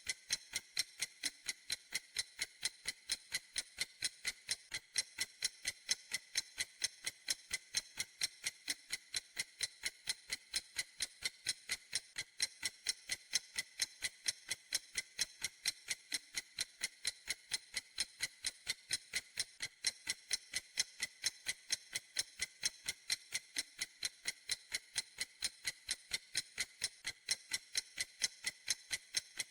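A clock ticking steadily: an even run of crisp, bright ticks, several a second, with no change in pace or loudness.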